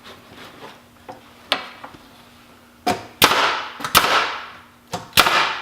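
Pneumatic finish nailer firing nails into wood framing: a light shot about a second and a half in, then four sharp, loud shots in the second half, each trailing off briefly.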